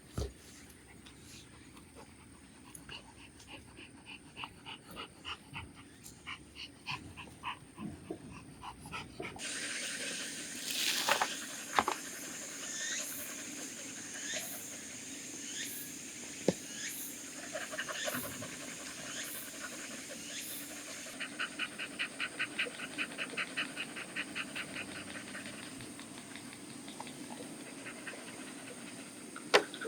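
Dog panting in quick, regular breaths, with a few sharp knocks in between.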